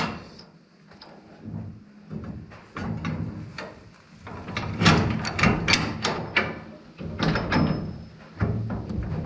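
Irregular metal clunks and scraping as a new bolt is worked through the mounting bracket of a tractor's 3-point hitch brush cutter, with the loudest knocks about five seconds in.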